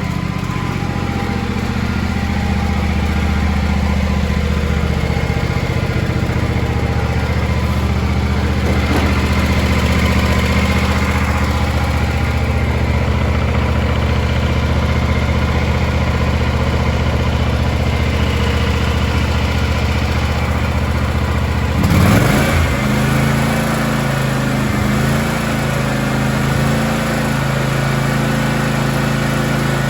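The 22 hp two-cylinder Kawasaki engine of a John Deere X384 lawn tractor running steadily at a low speed. About two-thirds of the way through, its pitch rises quickly as it is throttled up, and it then runs steadily at the higher speed.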